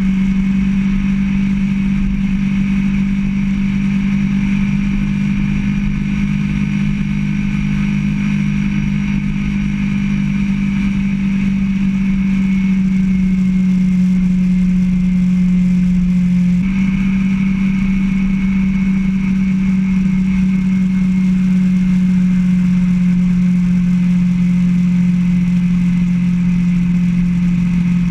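Motorcycle engine running at a steady cruising pitch during a ride, with rumble underneath. About two-thirds of the way through, the engine note steps slightly lower.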